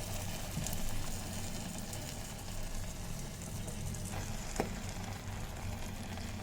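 Noodles and vegetables sizzling in an electric kettle used as a frying pot: a steady hiss over a low hum, with a couple of light knocks about four seconds in.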